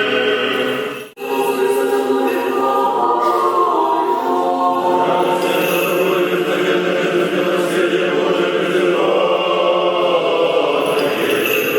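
Church choir singing unaccompanied Orthodox liturgical chant, broken by a brief gap about a second in.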